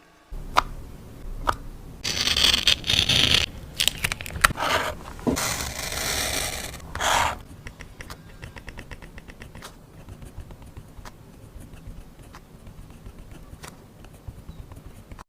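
Paper and stationery handled close to the microphone for art journaling: several loud, crisp scraping and rustling bursts, then a run of light, rapid ticking scratches.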